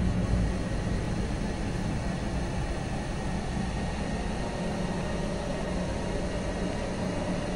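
A steady low drone with a hiss over it and a few faint held tones, the kind of dark ambient bed laid under a horror film scene.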